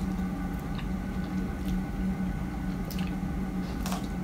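Close-up wet chewing and biting of fresh strawberries: soft squishy mouth sounds with small moist clicks about once a second, over a steady low hum.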